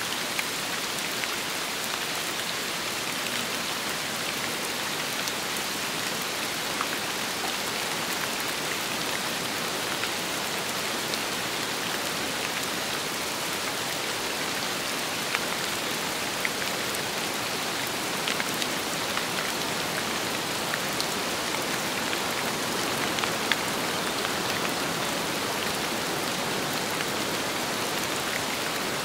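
Steady rain, an even hiss with scattered sharper ticks of individual drops striking a surface.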